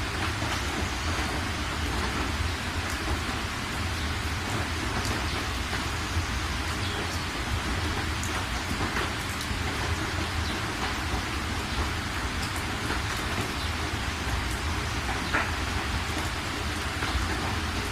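Steady rain falling, with scattered individual drop ticks over an even hiss and a constant low rumble underneath.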